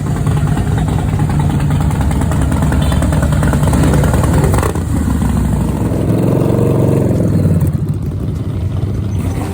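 Motorcycle engines running loudly, with one rev rising and falling about six seconds in.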